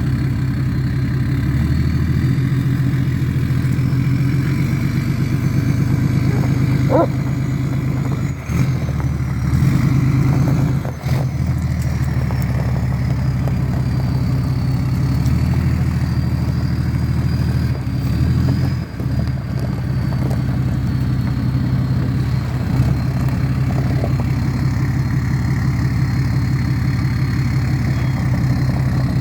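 6.7 Cummins straight-six turbodiesel running steadily, with a thin, high turbocharger whistle over the low engine note. The whistle rises in pitch over the first several seconds, falls back by the middle and then holds nearly steady.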